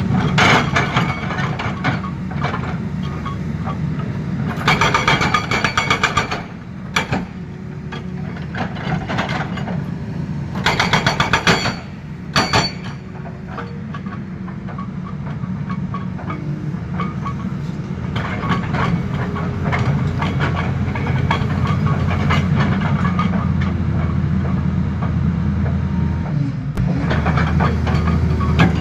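Tata Hitachi excavator's diesel engine running steadily, with two bursts of rapid, evenly spaced hammering from its hydraulic breaker, about five seconds in and again about eleven seconds in.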